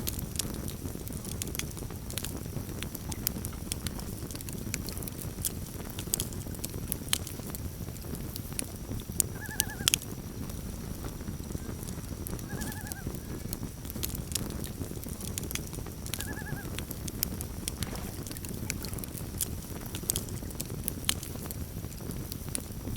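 Campfire crackling, with sharp pops over a low steady rush. Near the middle, three short quavering calls of a common loon come a few seconds apart.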